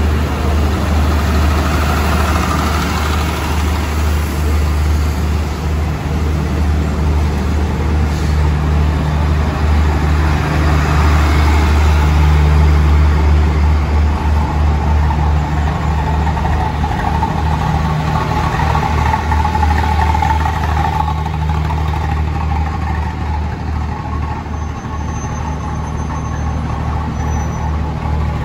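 State Railway of Thailand passenger coaches rolling slowly along a station platform and drawing to a stop: a steady low rumble of wheels and running gear. A faint high squeal sounds twice near the end.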